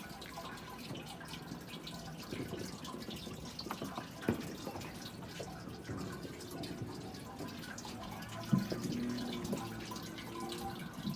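Faint scattered pops and crackles of distant fireworks, with a sharper pop about four seconds in and another about eight and a half seconds in.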